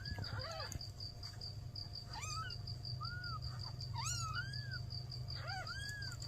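Newborn kittens mewing: about six short, high calls, each rising and falling in pitch, some overlapping. Behind them a cricket chirps steadily about three times a second over a low steady hum.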